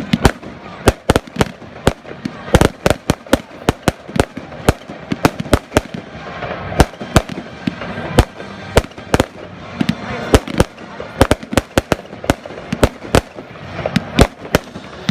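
Fireworks display: many sharp, irregular bangs of bursting fireworks, several a second, over a continuous crackle.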